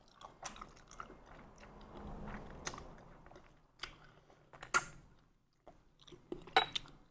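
Close-miked eating sounds of someone eating bún riêu noodle soup: chewing and wet mouth noises with a handful of sharp clicks, the sharpest about five seconds in.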